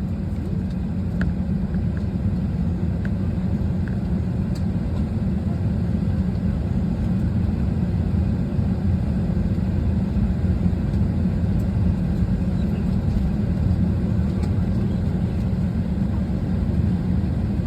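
Steady low rumble inside an Airbus A320 passenger cabin while the aircraft waits to push back, with a few faint clicks over the top.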